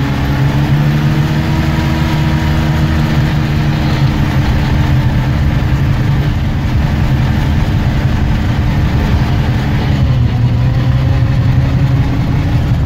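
Off-road 4x4's engine running steadily at low revs, heard from inside the cab; its pitch dips slightly about ten seconds in.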